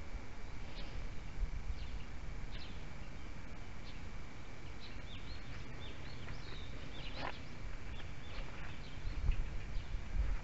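Small birds chirping, many short high calls overlapping, with a low rumble underneath.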